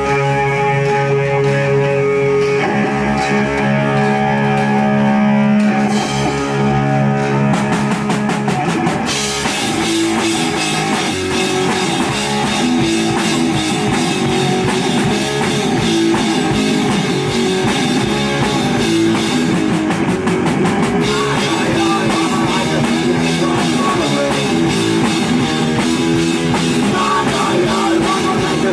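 Live rock band playing: the electric guitar opens alone with held chords, drum hits come in about seven seconds in, and from about nine seconds the full band of drums, electric guitar and bass plays together at a steady loud level.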